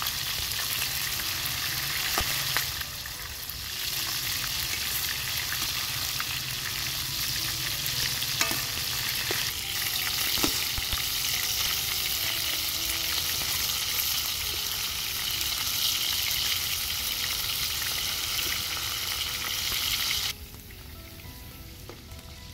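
Chicken hearts deep-frying in oil in a large aluminium pan: a steady loud sizzle, with a few sharp clicks of the slotted metal skimmer against the pan. About twenty seconds in the sizzle drops abruptly to a much quieter level.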